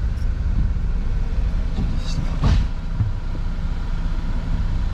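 Fiat 500's engine idling steadily, heard from inside the cabin with the windows open, with one short noise about two and a half seconds in.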